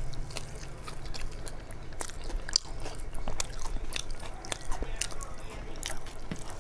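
A person chewing and biting mouthfuls of khichdi and fried pakora with irregular short clicks and smacks of the mouth.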